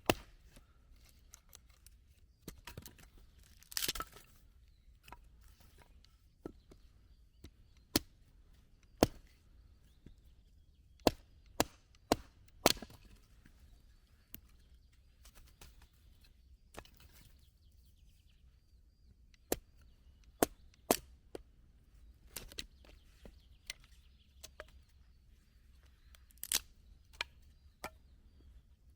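Wood being chopped: sharp, separate blows at irregular intervals of a second or two, with a longer crunching crack about four seconds in.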